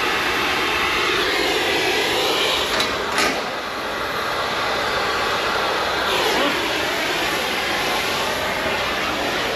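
A machine running steadily, with two sharp knocks close together about three seconds in, which fit hammer blows on a dozer track pin.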